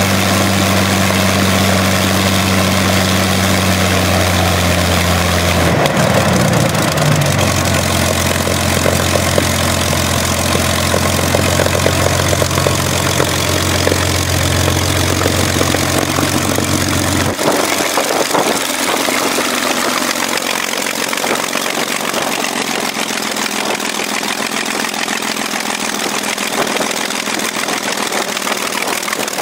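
Rolls-Royce Merlin 500-29 V12 aero engine running on a test run, with a steady low engine note that shifts in pitch about six seconds in. About 17 seconds in the low note drops away suddenly, leaving a loud, even rushing noise.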